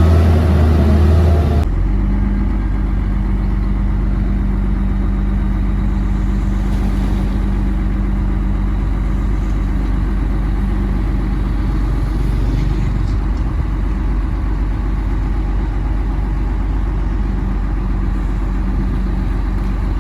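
Komatsu D58P bulldozer's diesel engine running loudly under load. Under two seconds in it cuts abruptly to a steady, quieter running note, which holds to the end.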